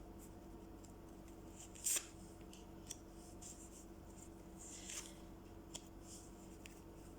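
Tarot cards being handled and laid out: a few soft rustles and light taps, the clearest about two and five seconds in, over a faint steady hum.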